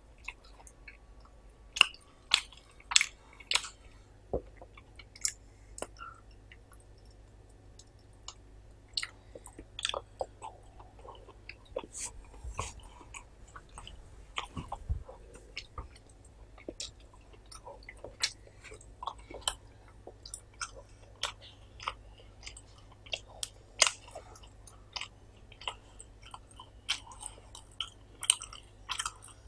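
Close-up chewing of rice and curry, with irregular sharp wet clicks and smacks throughout.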